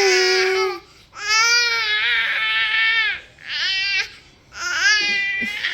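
A 5.5-month-old baby making long, high-pitched, sing-song squeals. There are four drawn-out calls that glide up and down in pitch, with short breaks between them.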